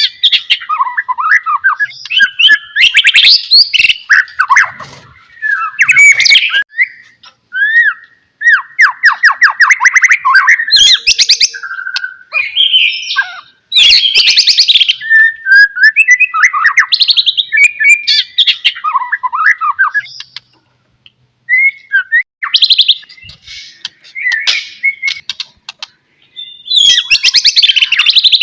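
White-rumped shama (murai batu) singing a long, varied song of whistled phrases and fast trills, broken by short pauses.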